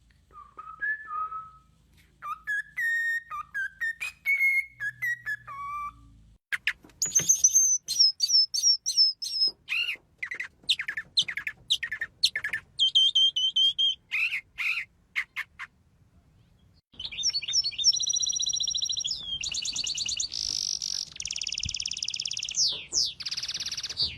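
Several different songbirds calling in turn, the sound changing abruptly from one bird to the next. First come clear whistled phrases, then a run of rapid, sharp chirps. After a short pause about two-thirds through, fast, buzzy high trills follow.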